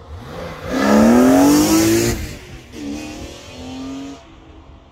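2002 BMW E46 M3's 3.2-litre S54 inline-six, with an Eventuri intake and stock exhaust, accelerating hard past. The engine note rises to its loudest about a second in and drops as the car goes by. It climbs again as the car pulls away, then fades near the end.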